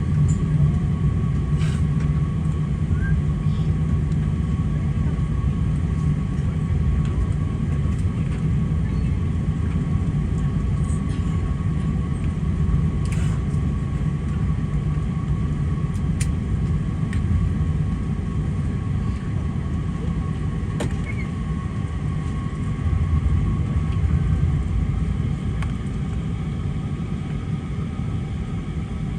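Steady low rumble of an Airbus A380's cabin, with a thin steady whine above it and a few faint clicks.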